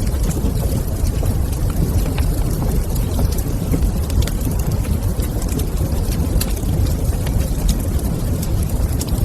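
Wood fire crackling in a fireplace: a steady low rumble of the burning fire with scattered sharp pops and ticks.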